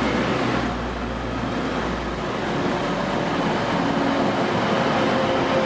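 Station platform ambience with a train standing or moving at the platform: a steady rumble and hum. The deep low hum fades out a little over two seconds in.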